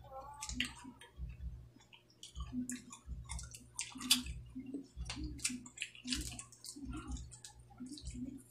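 Close-up eating sounds of people chewing with their mouths: a steady string of short wet smacks and clicks with soft low thumps under them.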